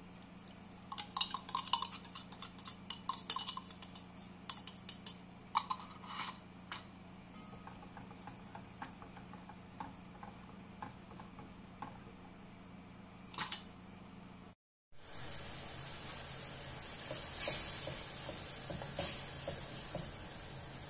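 A metal spoon scrapes and clinks against a bowl and a stainless steel pot as spice paste is spooned in, a run of sharp clinks over the first several seconds. After a brief cut, the paste sizzles steadily in hot oil while it is stirred, with a few louder scrapes of the spoon.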